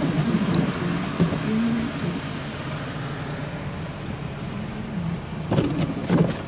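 Car driving through snow, heard from inside: a steady low engine hum with road and wind noise. A few short knocks come near the end.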